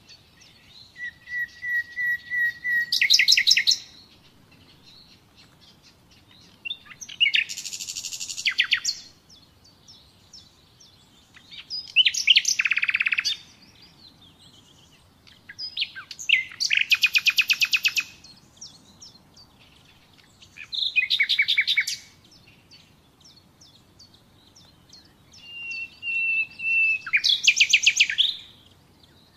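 Common nightingale singing: six separate phrases a few seconds apart, each a rapid run of repeated notes, some opening with a drawn-out whistled note, with softer chirps between phrases.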